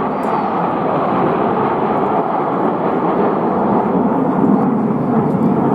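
Display aircraft in flight overhead, a steady engine noise that grows slightly louder near the end.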